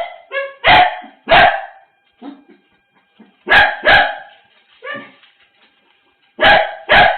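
Dog barking: sharp, loud barks in quick pairs and short runs with pauses between, mixed with a couple of fainter yelps.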